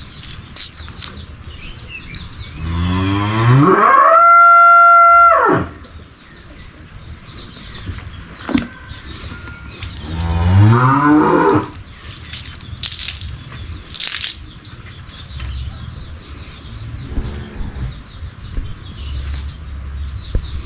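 A cow mooing: two long, loud calls, the first about three seconds in and the second about ten seconds in.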